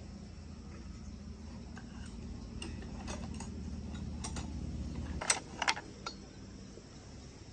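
Light clinks and ticks of metal parts and tools being handled, over a low steady hum that stops about five seconds in.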